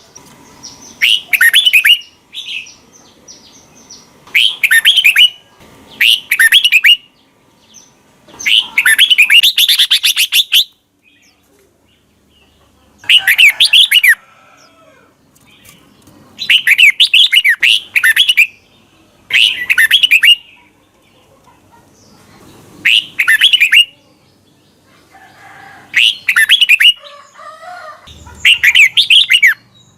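Red-whiskered bulbul singing: short phrases of quick sweeping whistled notes, repeated about every two to three seconds with short pauses between, one longer phrase about nine seconds in.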